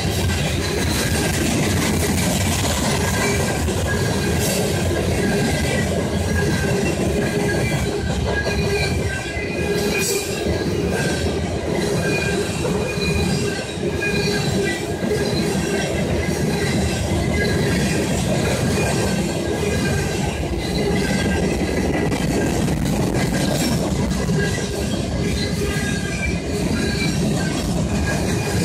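Covered hoppers and boxcars of a freight train rolling past close by: a steady rumble of steel wheels on rail, with high-pitched wheel squeal that comes and goes and a couple of sharper clanks.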